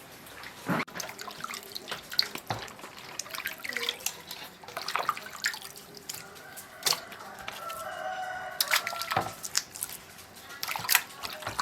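A rooster crows once, about eight seconds in, over scattered drips, splashes and clinks of water being handled.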